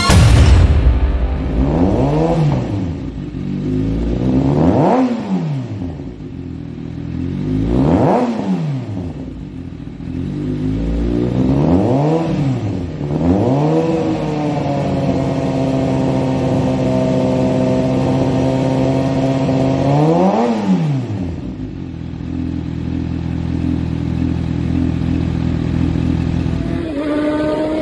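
2019 Kawasaki Ninja ZX6R's inline-four engine through a Competition Werkes aftermarket exhaust, revved four times in quick blips and then held at high revs for about seven seconds. The revs then drop back to a steady idle, and near the end another rising engine note begins.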